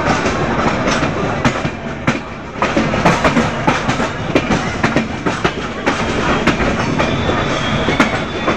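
Train wheels clattering over rail joints and points, a fast uneven run of clicks over a steady rumble. A thin, high wheel squeal starts near the end.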